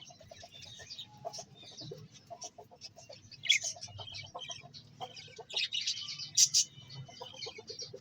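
A group of birds calling: many short, high chirps and twitters mixed with runs of rapid, lower clucking notes, with the loudest chirps near the middle and towards the end.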